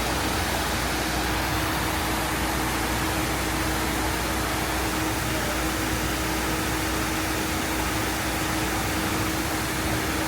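A steady, even rushing noise with a constant low hum through it, unchanging throughout.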